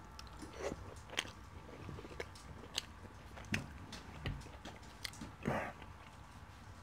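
Close-miked chewing of a mouthful of curry chicken, with wet mouth clicks and smacks at irregular intervals. A short, louder rustle about five and a half seconds in, as a paper napkin wipes the mouth.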